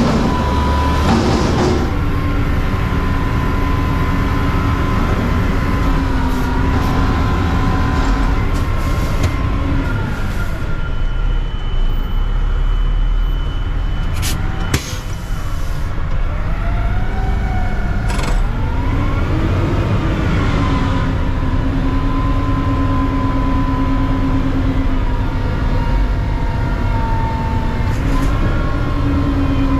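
Mack CNG garbage truck engine running steadily. About ten seconds in its revs drop away, and they rise again some eight seconds later before holding steady. There are a couple of sharp clicks near the middle.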